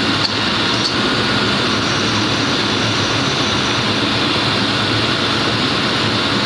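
1995 Lincoln Town Car running under the hood with the air conditioning on during a refrigerant recharge: a loud, steady mechanical noise of engine and air flow with a low hum underneath.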